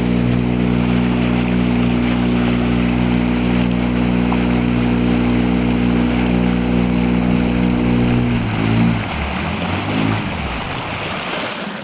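Motorboat engine running at a steady speed, then throttled back a little past eight seconds in: its pitch drops and wavers with a couple of brief blips before it dies away, leaving the rush of water.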